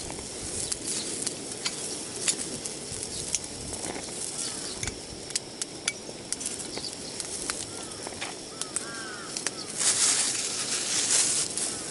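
Outdoor ambience with scattered sharp clicks and a few short bird chirps, and a brief louder hiss near the end.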